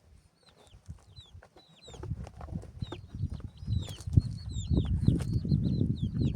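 Birds chirping: many short, high chirps that fall in pitch, repeated throughout. From about two seconds in, a low rumbling and knocking builds up underneath and becomes the loudest sound.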